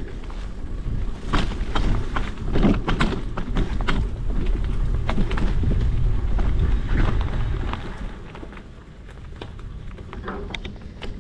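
Wind buffeting the microphone on a moving bicycle, a heavy low rumble with scattered clicks, knocks and rattles from the bike riding over a rough trail; the rumble eases off about eight seconds in.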